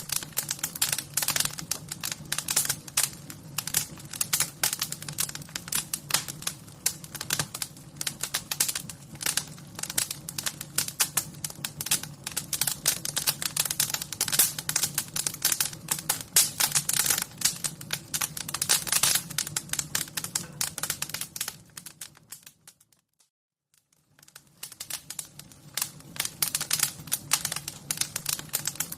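Wood fire crackling, with dense, irregular pops and snaps over a steady low hum. The crackling fades to near silence for about two seconds near the end, then comes back.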